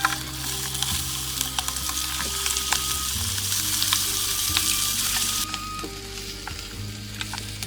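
Food sizzling in a hot pan, a steady hiss dotted with sharp crackles and pops, which cuts off abruptly about three-quarters of the way through. Soft background music plays underneath.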